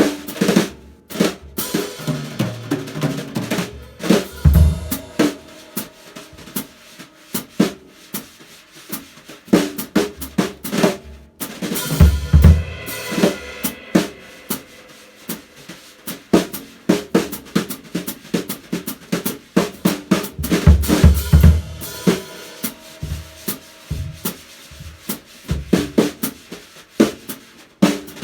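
Drum kit played solo, a dense, irregular run of snare and cymbal strikes with heavy bass-drum thumps in clusters about 4, 12 and 21 seconds in.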